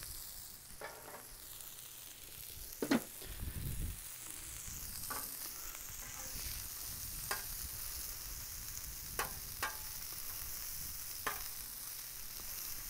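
Bacon, burger patties, onions and jalapeños frying on a Blackstone flat-top griddle: a steady sizzling hiss, with a few short sharp clicks spread through it.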